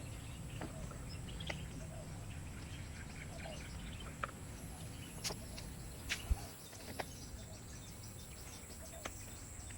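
Rainforest ambience: a steady high insect drone with scattered faint bird chirps, and a few sharp clicks and taps.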